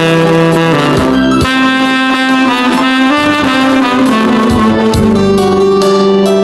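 Tenor saxophone playing a slow melody in long held notes over a backing track with drums.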